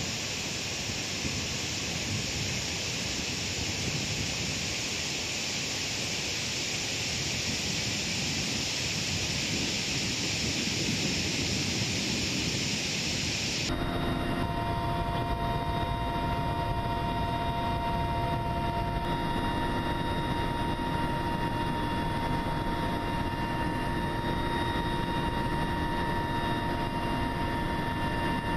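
A steady rushing noise, then, about 14 s in, a sudden change to a steady engine drone with a low rumble and a constant hum.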